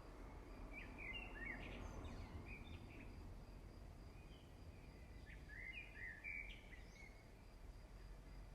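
Faint bird chirping over a steady low background hum: two short runs of quick calls, one about a second in and another around six seconds in.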